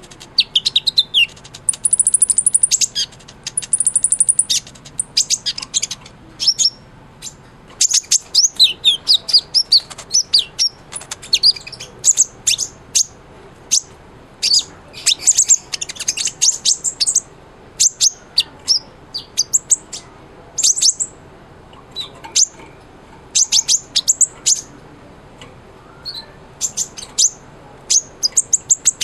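Kolibri ninja sunbird singing persistently: rapid runs of sharp, high chirps and short twittering trills, one after another with only brief gaps.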